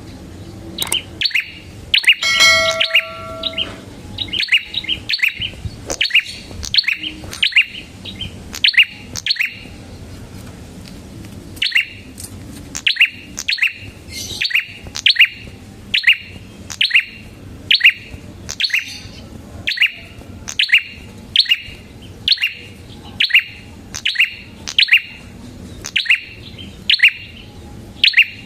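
Red-headed prenjak songbird calling insistently: a long run of short, sharp chirps, one to two a second, broken by a pause of about two seconds near the middle. Early on a steady electronic-sounding tone with overtones sounds for about a second and a half over the chirps.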